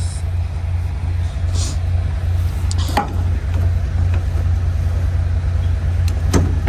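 Steady low drone of a semi-truck's diesel engine running, with a couple of short clicks about three seconds in and near the end.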